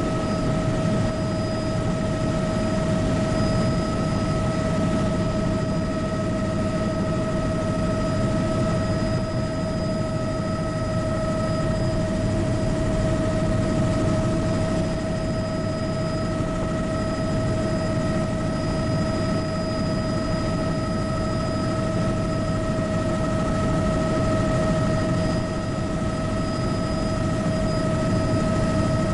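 Bell 206B JetRanger helicopter in steady cruise, heard from inside the cabin. A dense, even rotor rumble runs under a steady, high turbine whine from its Allison 250 turboshaft engine.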